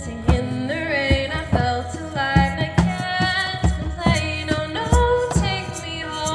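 Live music: a voice singing a gliding melody over a steady hand-drum beat of about two to three strokes a second.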